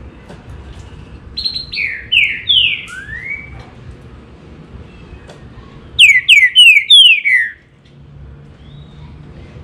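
Green-winged saltator (trinca-ferro) singing: two short phrases of quick, falling whistled notes, four or five to a phrase, the second, about six seconds in, the louder.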